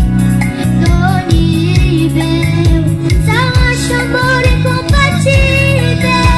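Band music with a steady drum beat and a melody line over it.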